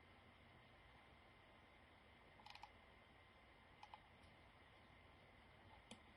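Near silence: faint room tone with a few soft clicks, a short cluster about two and a half seconds in, then single clicks near four seconds and near the end.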